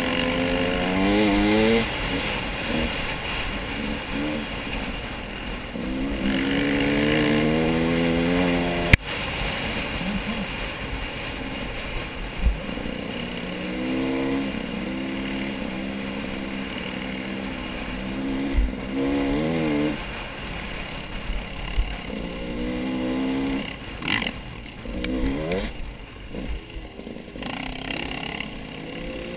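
An engine revving up and down over and over, its pitch rising and falling in repeated sweeps, with a single sharp click about nine seconds in.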